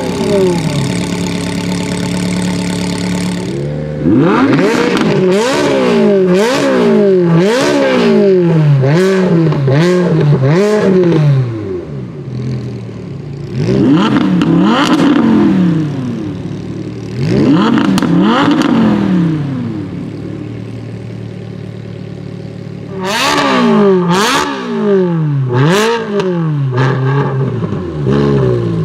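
A supercar's engine idling and being blipped repeatedly, each rev rising and dropping quickly. The revs come in runs of several blips about a second apart: the longest starts about four seconds in, shorter runs follow in the middle, and another run comes near the end, with a steady idle between them.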